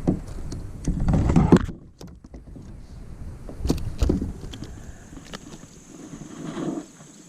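Irregular knocks, bumps and rumbling handling noise in a kayak as a hooked small bass is brought in and handled.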